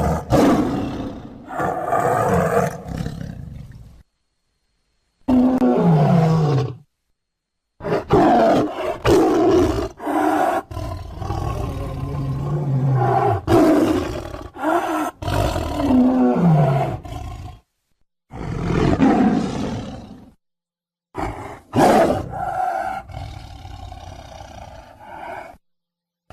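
Tiger roars and growls, a string of separate calls cut apart by short stretches of dead silence; a couple of them end in a falling moan.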